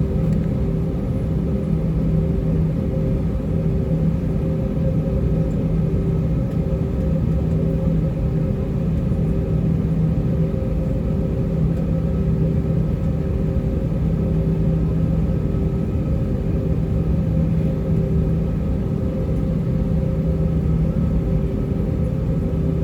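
Airbus A320-232's IAE V2500 turbofan engines running at taxi power, heard inside the cabin: a steady low rumble with a constant hum.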